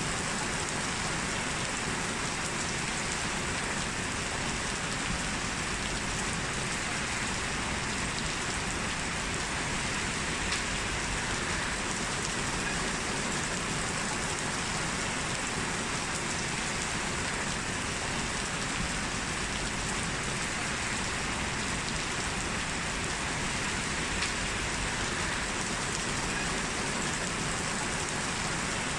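Heavy rain falling steadily: a dense, even hiss of rain on hard surfaces, with a couple of slightly louder single drop hits.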